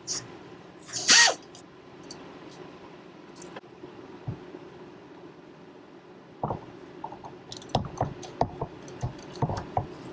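Hand tools working a bolt on a car's AC compressor. There is one short, loud scraping noise about a second in. Then, over the last few seconds, comes a run of irregular metal clicks and taps from a wrench on the bolt.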